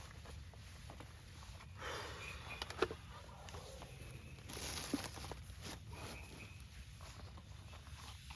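Rustling and handling noises with a few sharp clicks and knocks over a steady low rumble.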